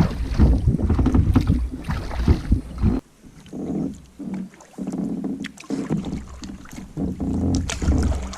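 Canoe paddling with water noise, and wind rumbling on the microphone for the first three seconds. The rumble cuts off abruptly, leaving quieter, recurring swells of paddle and water sound.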